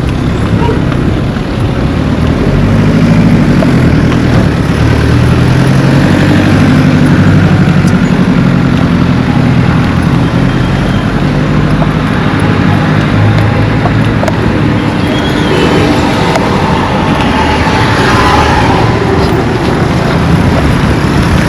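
Road traffic close by: engines of passing vehicles running steadily, with one vehicle passing louder near the end.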